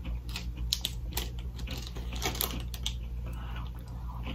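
A crunchy snack being chewed: a run of irregular small crackling clicks.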